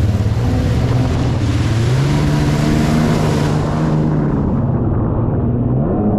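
Jet ski engine running under way, with wind and water spray rushing past. The engine note steps up about two seconds in, and the hiss of wind and spray dies away around four seconds in while the engine keeps running.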